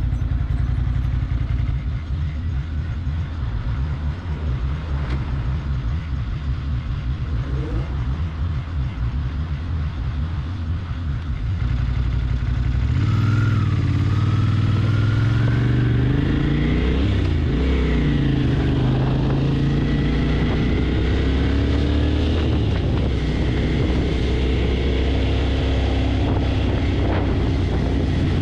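Motorcycle engine running steadily, then from about halfway in louder, its pitch rising and falling as it revs and accelerates.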